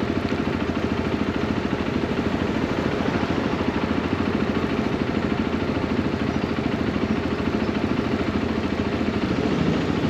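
Motorcycle engine idling with a fast, even pulse, picking up slightly right at the end.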